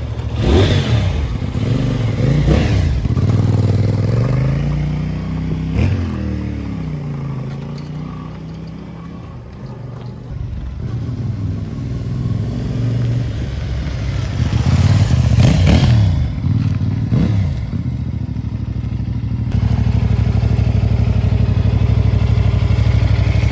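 CFMOTO 800NK motorcycle engine under way, its pitch climbing and dropping several times as it accelerates and shifts gear. Near the end it changes suddenly to a steady low drone.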